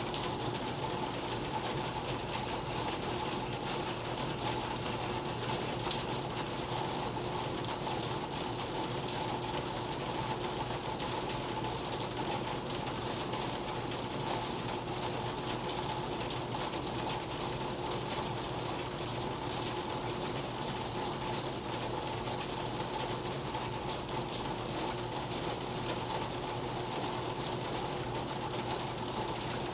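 Steady rain falling, a constant hiss of water with a fine patter of drop ticks, over a faint steady hum.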